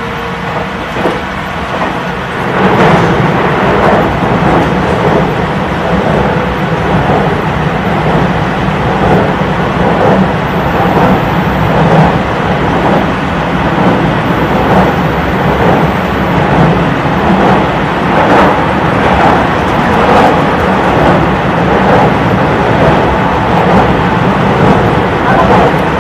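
Running noise of a JR Central 313 series electric train heard from inside the car: a steady rumble with repeated clacks of the wheels over the rail. About two and a half seconds in it grows louder as the train runs onto a steel truss bridge.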